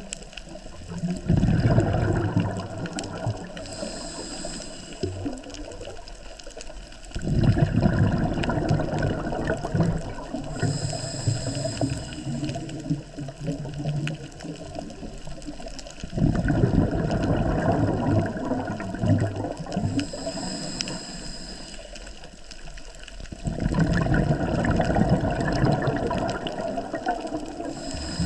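Scuba diver breathing through a regulator underwater. A short, high hiss from the regulator on each inhale alternates with a long, bubbling rush of exhaled air, about four breaths in all.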